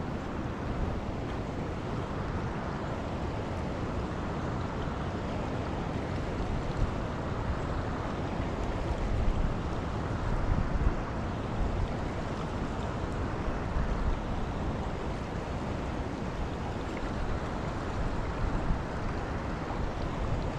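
Steady rush of a fast-flowing, storm-swollen creek, with wind buffeting the microphone in irregular low gusts.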